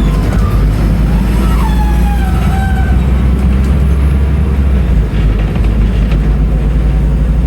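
Scania N310UA articulated city bus engine running on the move, a steady low drone with a brief dip in the engine note about five seconds in.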